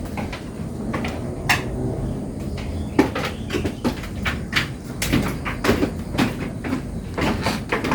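Irregular knocking and clattering: scattered sharp knocks that come thicker and faster from about three seconds in, over a steady low rumble.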